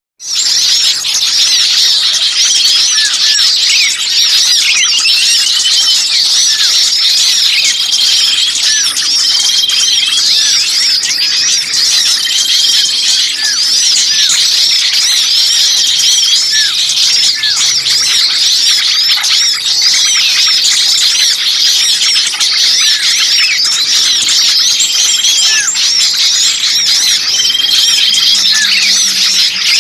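Bird-lure recording of many small songbirds calling agitatedly at once: a dense, continuous tangle of high chirps and trills, with short level whistles recurring every couple of seconds and brief downward-sliding notes. It follows a momentary break right at the start. This is the noisy alarm chatter of small birds ('burcil ribut') used to draw wild birds in.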